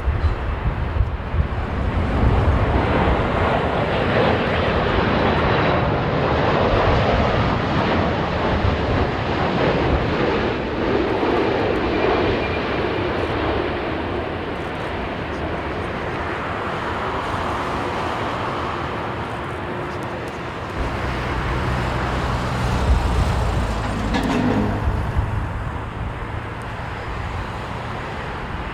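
Jet airliner on landing approach, its engine noise swelling as it passes and then fading, with gusty wind buffeting the microphone.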